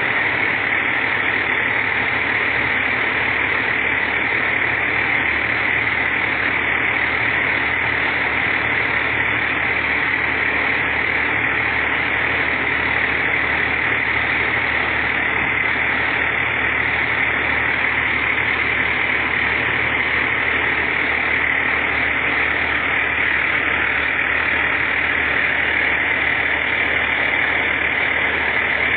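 Fire truck's diesel engine running steadily, a constant engine noise with no changes in pitch or level.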